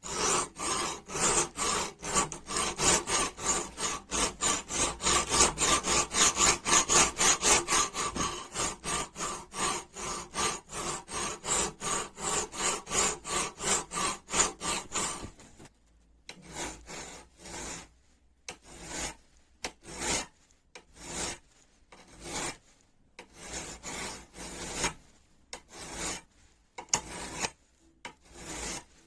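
Hand scrubbing strokes of an abrasive on a rusty wrench, working the rust off. The strokes go back and forth fast and evenly, about three a second, for roughly the first half, then turn slower and separate, with short pauses between them.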